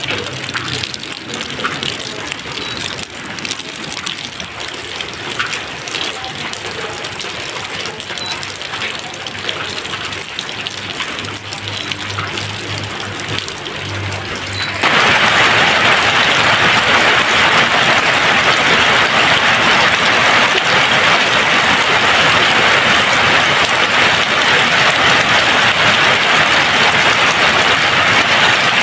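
Steady rain with scattered individual drops. About halfway through it switches abruptly to a louder, denser, even hiss of heavier rain.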